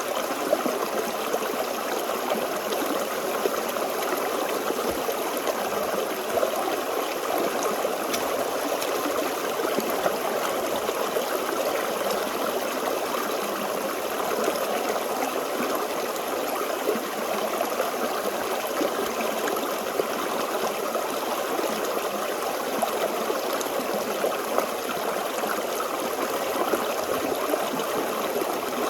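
A small forest stream flowing steadily over rocks, a continuous babbling of running water with brief splashy flickers scattered through it.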